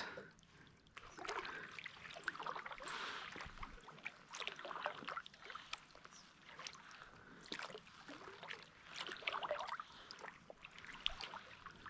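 Quiet kayak paddling on a river: the paddle dipping and splashing softly at irregular intervals, with faint trickling water around the hull.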